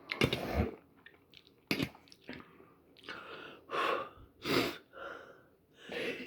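A man breathing hard in a string of short, sharp, noisy breaths and sniffs, the loudest right at the start, from the burn of a Pepper X chilli vindaloo and a dripping nose.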